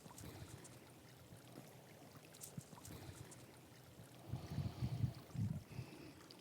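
Faint steady rush of a small stream flowing close by. About four seconds in, a second or two of low, uneven rumbling thumps.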